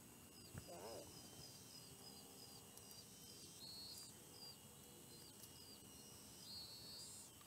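Faint outdoor ambience: a bird repeating short high falling notes, several a second, with a couple of longer held notes, over a steady thin insect drone.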